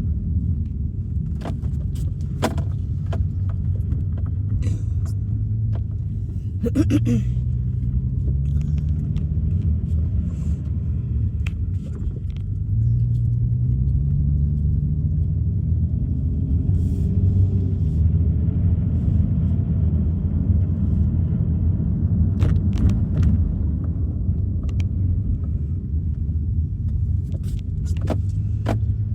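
Car cabin noise while driving: a steady low rumble of engine and tyres, with the engine note rising several times as the car speeds up, and scattered sharp ticks.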